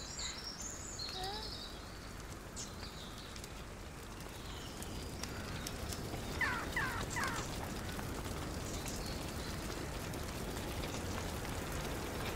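Outdoor ambience with small birds chirping: a few high twitters near the start and a quick run of three or four chirps about six seconds in, over a steady hiss that slowly grows louder.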